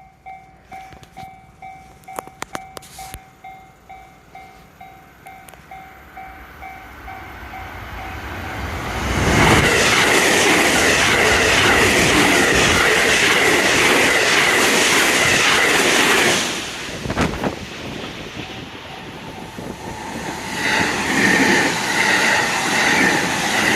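Japanese railway level-crossing warning bell dinging about two or three times a second. From about 9 s to 16 s an electric train passes at speed with a loud, steady rush of wheels on rail, drowning the bell. It cuts off sharply, and the noise rises again near the end as another train nears.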